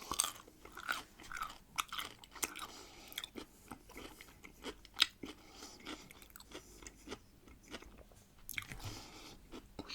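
Close-miked chewing and crunching of salted pickled cucumbers: a steady run of crisp crunches, the sharpest about five seconds in.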